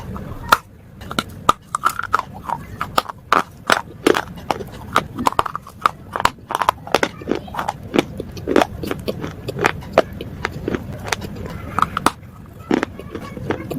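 Close-miked crunching of brittle slate bars, a rapid, irregular series of sharp cracks and snaps, over a faint steady low hum.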